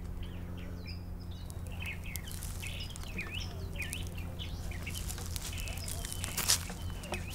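Small birds chirping again and again over a steady low hum, with a few brief crackles near the end.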